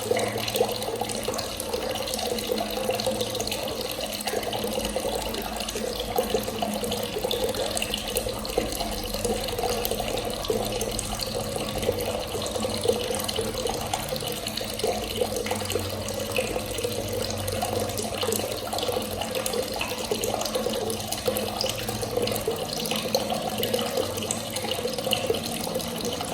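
Water running from a tap in a steady, unbroken stream.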